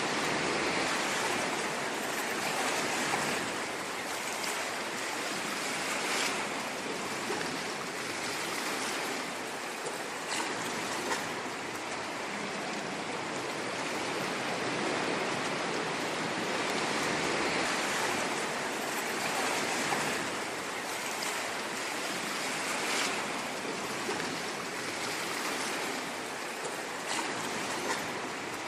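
Ocean waves washing onto a shore, a continuous hiss of surf that swells and eases slowly, with a few brief sharper splashes.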